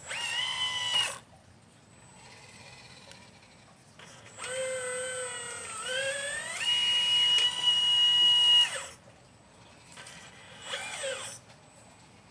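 Electric motor whine from a 1/12-scale RC Liebherr 954 excavator, coming in three bursts as it moves. There is a short burst at the start, then a long one about four seconds in whose pitch dips, rises and holds high, and a brief one near the end.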